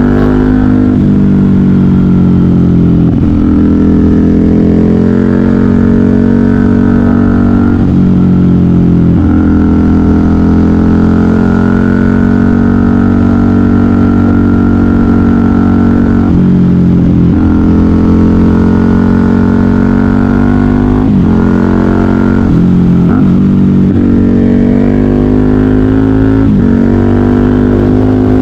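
KTM 990 Super Duke R's V-twin engine through a custom exhaust, loud and under load, rising in pitch as it accelerates and dropping sharply at each gear change or roll-off, several times over.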